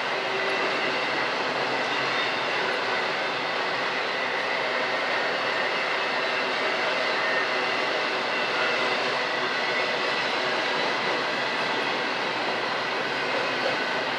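Train cars rolling past, a steady, unbroken noise of wheels on rail with faint high steady tones of wheel squeal.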